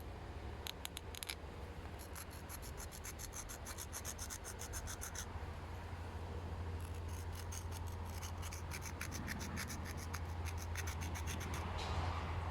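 Rapid scraping strokes on a broken piece of campfire-fired clay pottery, about six strokes a second in two runs with a short pause between. The clay scrapes away easily, a sign that the piece is underfired.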